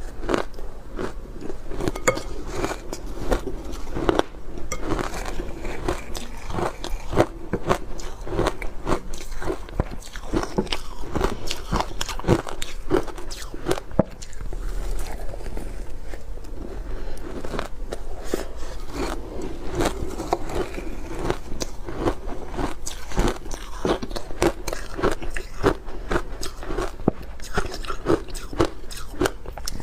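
Ice being bitten and chewed close to the microphone: a steady run of sharp crunches and cracks as the pieces break up between the teeth.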